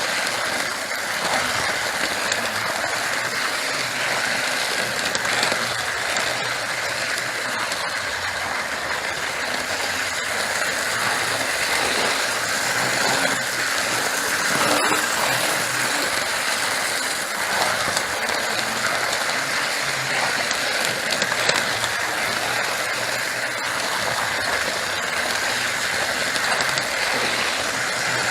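OO gauge model train running round the track, heard from a camera riding on it: a steady whirring rattle of wheels and mechanism on the rails, with occasional faint clicks.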